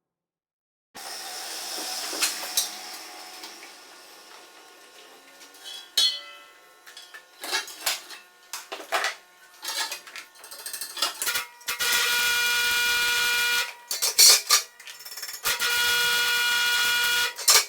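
Metal tools and parts clinking, then a small power tool running steadily in two spells of a couple of seconds each.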